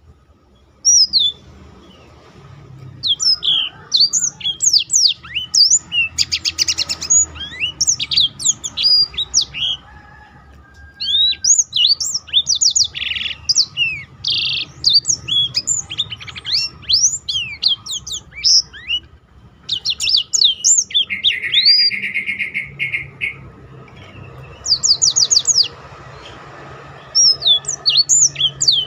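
Blackthroat (black-throated canary) singing in loud, fast phrases of quick sweeping chirps and trills, broken by short pauses, with a buzzy passage about three-quarters of the way through.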